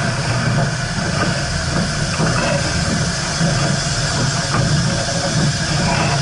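Steam train: a steady low rumble with an even hiss of steam over it.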